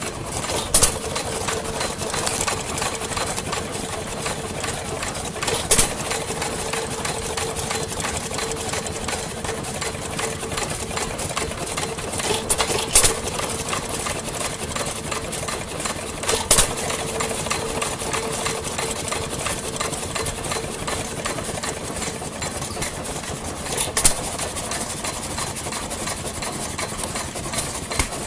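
Vintage engines running with a steady mechanical clatter and a steady hum. Sharp cracks break through five times, a few seconds apart at irregular gaps.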